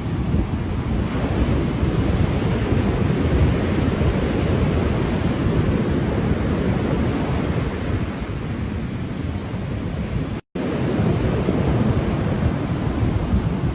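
Ocean surf rolling steadily with wind rumbling on the microphone, a continuous low roar. A split-second silent gap breaks it about ten and a half seconds in.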